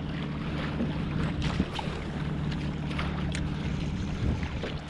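Water sloshing around a kayak on open water, with wind on the microphone, a steady low hum underneath and scattered small clicks and taps.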